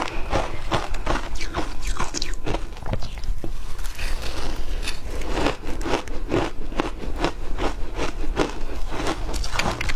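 A person biting and chewing ice up close, a quick run of crisp crunches two or three a second, briefly lighter a few seconds in.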